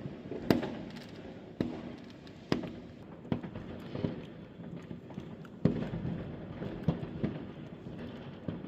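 New Year's fireworks and firecrackers going off: sharp bangs at uneven intervals, roughly one a second, each followed by a short echo, over steady crackling and popping.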